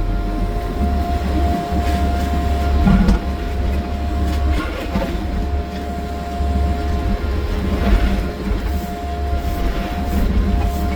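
Wheeled excavator's diesel engine running with a steady low rumble and a steady high whine over it, and a few faint clanks.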